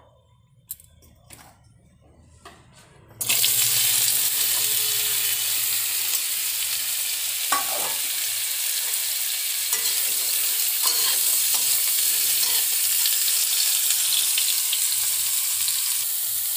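Boiled jackfruit and potato pieces tipped into hot oil in a kadhai, setting off a loud sizzle that starts suddenly about three seconds in and keeps going steadily as they are stirred with a slotted spoon.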